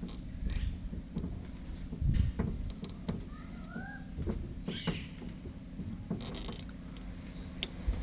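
Vehicle engine idling with a steady low hum, while the steering is turned left and right and scattered knocks and clicks come through. There is a short rising squeak a little over three seconds in.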